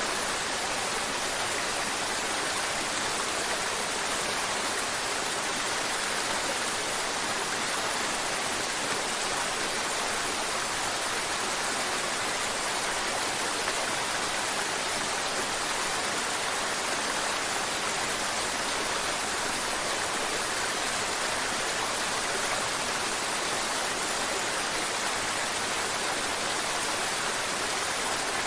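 Mountain river water rushing and splashing over rocks, a steady even hiss of flowing water.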